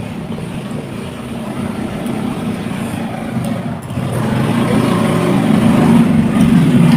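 Low, steady engine rumble of a motor vehicle running nearby, growing louder from about four seconds in.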